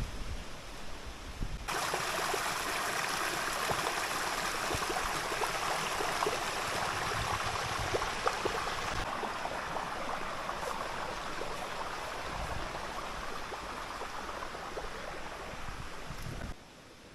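A river rushing over rocks: a steady, dense water noise with fine crackle. It starts abruptly about two seconds in and cuts off shortly before the end.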